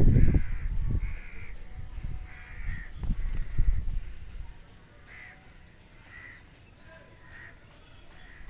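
Parrot calling in short squawks, about one a second, with loud low rumbling and knocks over the first half that stop about halfway through.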